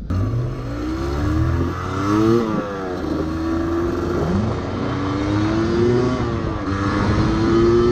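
2006 Yamaha DT125R's single-cylinder two-stroke engine pulling away and accelerating. Its pitch climbs and drops back twice as it shifts up through the first gears, then rises slowly and steadily as the bike gains speed.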